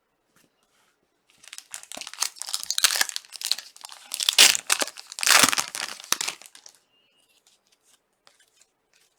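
Trading card pack wrapper being torn open and crinkled, a dense crackling that lasts about five seconds and peaks just past the middle, followed by a few faint ticks.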